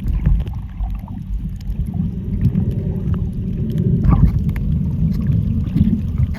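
Muffled low rumble and faint clicks of a camera recording underwater while snorkelling among fish.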